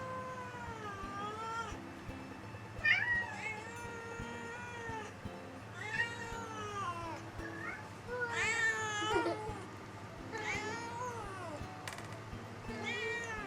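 A cat meowing again and again, about seven long, drawn-out meows that rise and fall in pitch, one every second or two, over faint background music.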